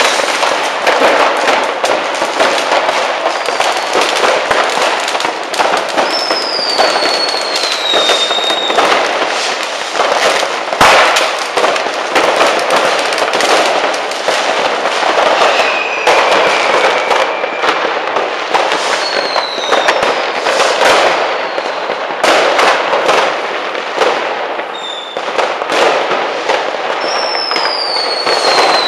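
Dense fireworks: a continuous crackle of many firecrackers and bangs, with several whistling fireworks gliding down in pitch, and one heavier bang about eleven seconds in.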